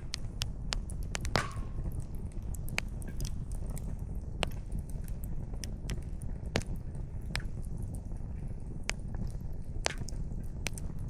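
Wood campfire crackling: irregular sharp pops and snaps from the burning firewood over a low, steady rumble. One louder snap about a second and a half in is followed by a brief whistle.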